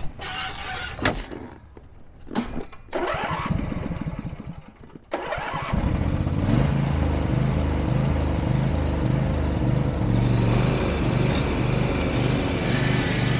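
A small petrol engine is cranked for a couple of seconds, catches about six seconds in, and then runs steadily. A few knocks come before the cranking.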